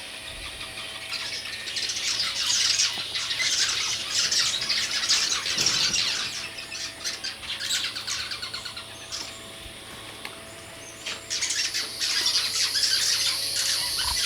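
Plume-toed swiftlets chattering at their colony: a dense, rapid twittering of many birds that thins out after several seconds. Near the end a steady high-pitched buzz takes over.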